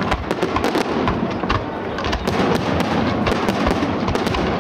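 Fireworks display: aerial shells and crackling effects going off in a dense, unbroken barrage, many bangs following each other in quick succession.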